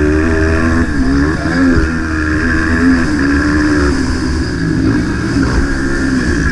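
Motocross bike engine running hard, its pitch rising and falling several times as the throttle opens and closes, over a steady low rumble.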